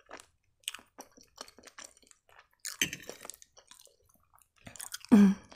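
Close-miked chewing of penne pasta in a creamy Alfredo sauce, with many small wet mouth clicks and squishes. A short rush of noise comes about three seconds in, and a brief low hum near the end.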